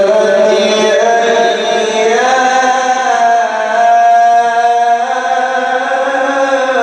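A man reciting the Quran in the melodic, drawn-out style, stretching one vowel into a long ornamented melody that climbs in pitch about two seconds in and is then held steady.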